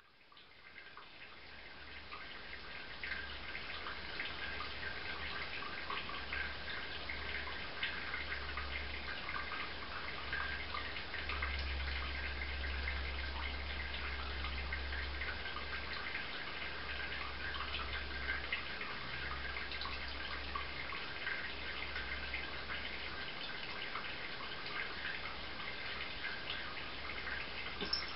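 Water dripping and trickling from a tap, a steady patter of many small drops that fades in at the start. A low hum underneath comes and goes.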